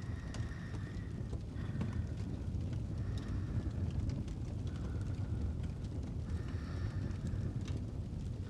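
Fireplace ambience: a steady low rumble of burning fire with scattered small crackles and pops.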